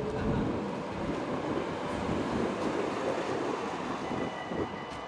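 SIG tram running along the track, a steady rolling rumble. A faint high steady tone comes in near the end.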